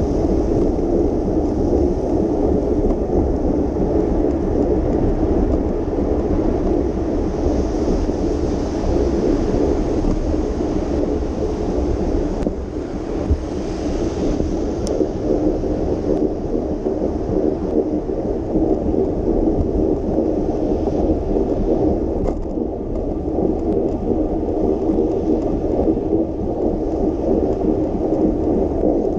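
Steady rumbling noise of a moving bicycle ride: wind buffeting the microphone over road noise.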